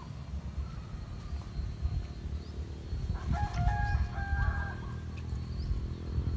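A rooster crowing once, a stepped call of about a second and a half starting about three seconds in, over a steady low rumble.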